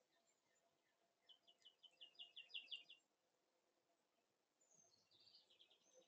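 Faint songbird singing two trills, each a rapid series of about ten short, high, repeated notes. The first trill comes about a second in and swells louder before stopping. The second starts near the end.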